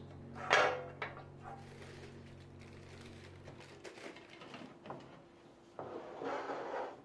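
Household items being handled: a sharp clatter about half a second in, a few light knocks, and a rustling scrape near the end. A steady low hum stops about four seconds in.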